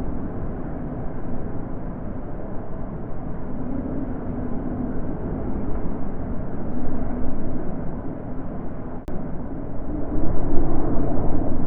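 Natural wind blowing: a low, steady rush that swells and eases, growing stronger near the end.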